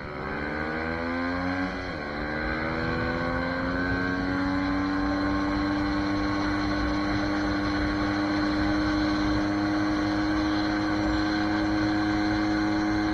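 SSR 150 dirt bike's single-cylinder four-stroke engine under way: revs climb, drop at a shift about two seconds in, climb again in the next gear, then hold steady at cruising speed.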